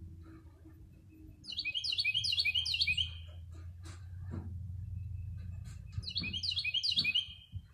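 A songbird singing two quick phrases of rapid, high, falling notes, each about a second and a half long and a few seconds apart, over a low steady hum.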